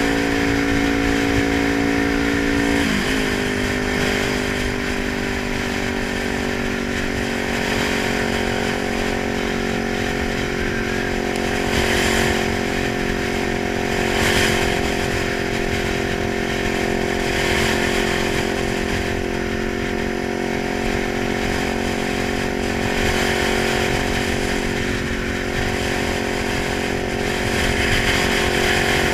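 Kawasaki 900 motorcycle engine running steadily; its pitch drops a little about three seconds in, then holds level.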